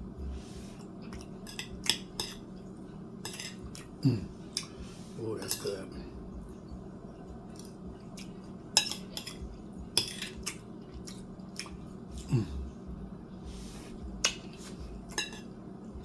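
Fork clinking and scraping on a plate while eating rice and black-eyed peas, in irregular sharp clicks, over a steady low hum.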